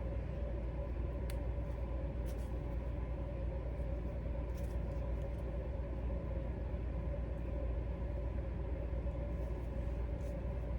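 Steady low rumbling hum with a faint constant whine, like a fan or small motor running, with a few light taps over it.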